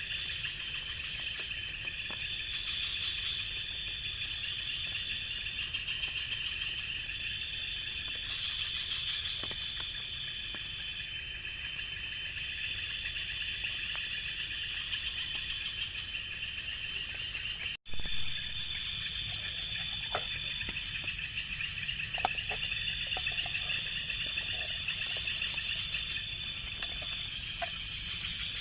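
Night-time tropical forest insect chorus: steady high-pitched trilling and buzzing, with one band of trills swelling and fading every couple of seconds. The sound cuts out for an instant about two-thirds of the way through, then resumes.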